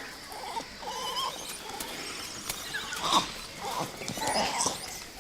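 Langur monkeys calling: several short, pitched calls, the loudest a little past halfway through.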